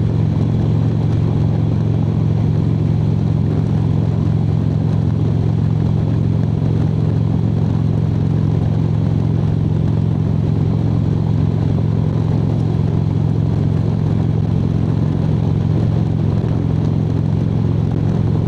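Harley-Davidson motorcycle's V-twin engine running at a steady cruising speed on the highway, a constant low rumble with no change in pitch.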